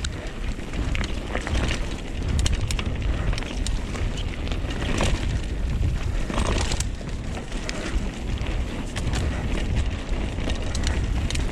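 Wind buffeting the microphone in a heavy low rumble while a mountain bike rolls over a dirt trail, with tyres crunching and frequent clicks and rattles from stones and the bike's frame and chain.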